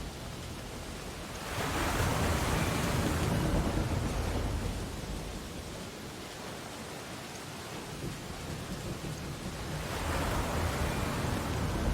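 Ocean waves breaking on a beach: a wash of surf swells up about a second and a half in, ebbs away over several seconds, and a second wave breaks near the end.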